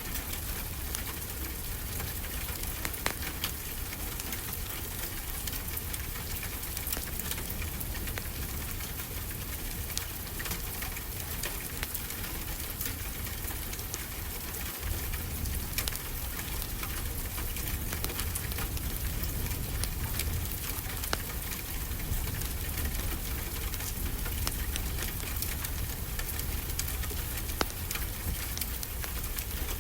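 Steady rain falling, with a wood fire crackling in the mix as many scattered small clicks and pops.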